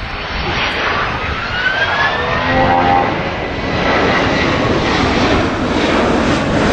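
Boeing 757 jet airliner flying past low and slow, its jet engines making a loud roar that builds in loudness, with a whine rising in pitch over the first few seconds.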